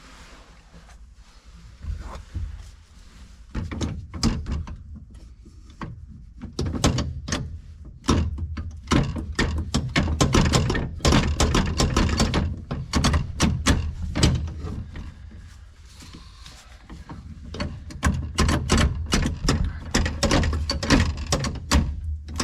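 Hand tools and metal parts knocking and clattering in quick runs of several strikes a second, in busy stretches with a short lull in the middle, during teardown work on a tractor transmission.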